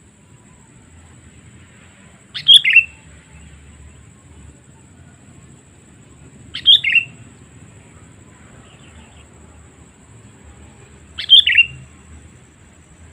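Sooty-headed bulbul (kutilang) giving a short call three times, about four and a half seconds apart. Each call is a quick pair of notes falling from high to lower pitch.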